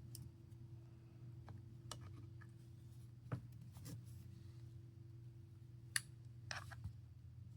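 Faint scattered clicks and a brief scrape of a small pry tool working at a part inside an opened smartphone, over a steady low electrical hum.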